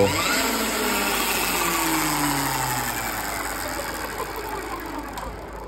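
Electric Motion electric motorcycle's motor and drivetrain whining after a throttle blip, the pitch sliding steadily down as the spinning wheel coasts to a stop.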